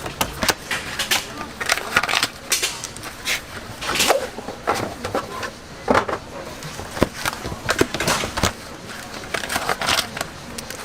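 Irregular knocks, clicks and scraping clatter of kitchen work during food preparation.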